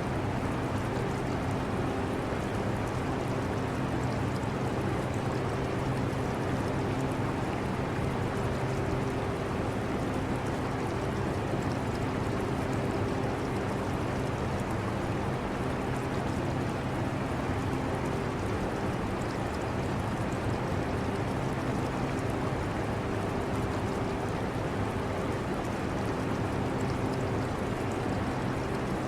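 Portable air conditioner running with a steady low hum and airflow hiss, mixed with the trickle of an aquarium's water.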